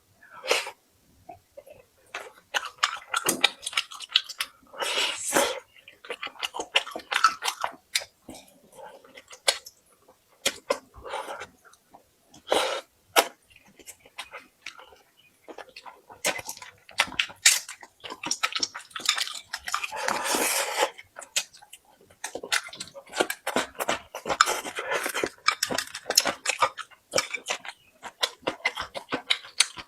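A person eating pork ribs close to the microphone: repeated bites and chewing in clusters of short clicky, wet bursts with brief pauses between.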